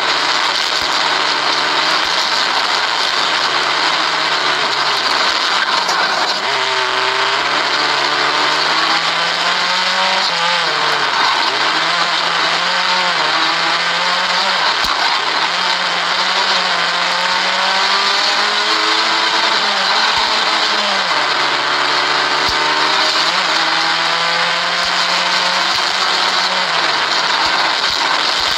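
Vauxhall Corsa 1200 Junior rally car's engine heard from inside the cabin, driven hard. Its pitch climbs and falls repeatedly, dropping sharply several times as it changes gear or lifts off, over a constant loud hiss of road and tyre noise.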